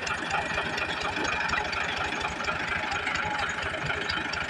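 Tractor's diesel engine running steadily, with a rapid even beat.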